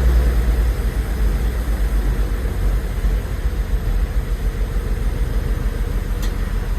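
Willys FC-170 truck's flathead six-cylinder engine idling on a cold start with the choke just pushed back in. The low rumble eases a little right at the start, then runs steady as the idle settles.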